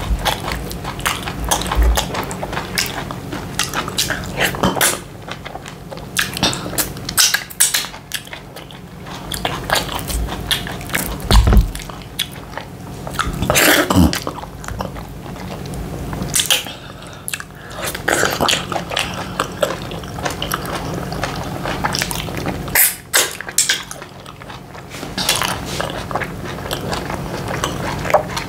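Close-miked chewing and mouth sounds of a person eating semolina fufu with ogbono soup, in irregular short smacks and clicks.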